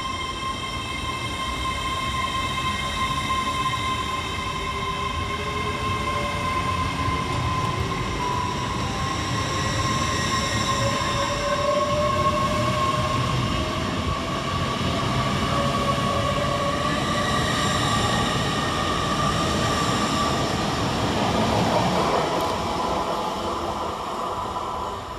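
Great Western Railway Class 800 Hitachi train pulling away, with a steady rumble of wheels on rail and several whining tones from its traction equipment. One whine rises in pitch as it gathers speed.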